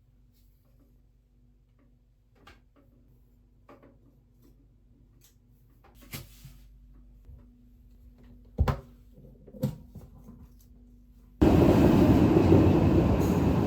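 A few soft clicks and two thumps, like a door or cupboard being handled, over a faint steady hum; then, near the end, a sudden switch to loud steady rumbling noise of the kind heard on a moving train.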